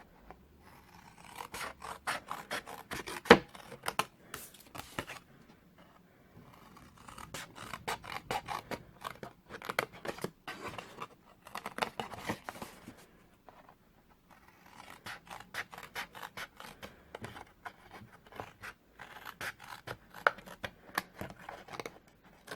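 Scissors snipping through cardstock, cutting away the corners of a scored square. The snips come in three runs of quick cuts with short pauses between them.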